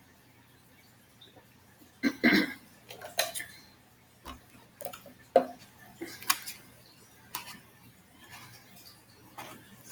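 Close-up eating sounds: an irregular string of sharp clicks and wet smacks from chewing and a utensil on the food, starting about two seconds in.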